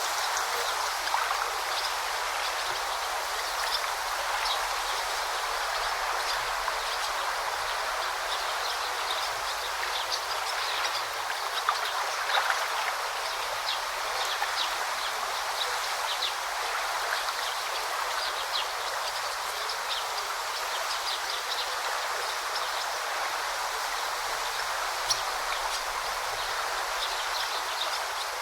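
Forest river babbling steadily over stones, with short high bird chirps scattered through it.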